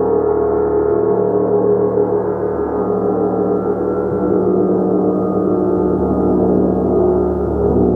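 Gong being played continuously: a dense, sustained wash of many overlapping ringing tones, mostly low and middle in pitch, held at a steady loudness with no distinct separate strikes.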